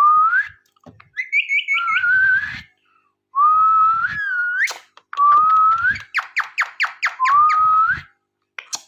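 Ringneck parrot whistling: a string of clear whistled notes that hold or rise slightly, some ending in an upward flick. About six seconds in comes a quick run of about eight short downward chirps.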